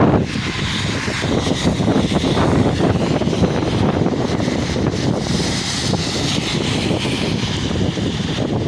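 Heavy rain falling: a steady rushing noise, with a low rumble of wind on the microphone.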